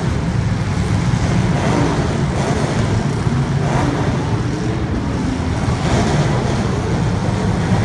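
Steady low rumble of race car engines running, mixed with wind buffeting the microphone.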